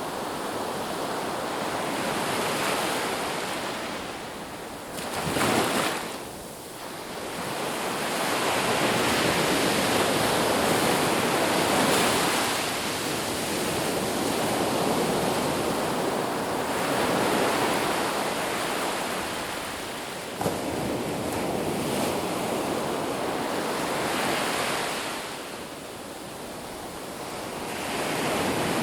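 Ocean waves breaking on a beach, a continuous surf wash that swells and ebbs every few seconds, with one sharper wave about five and a half seconds in.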